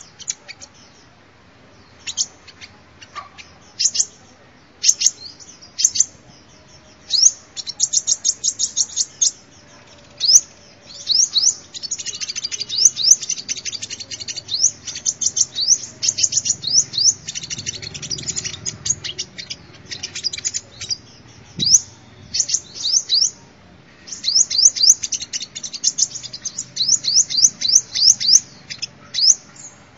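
Sunbird song: rapid bursts of high, thin chirps and quick sweeping notes, packed close together and repeated with short pauses.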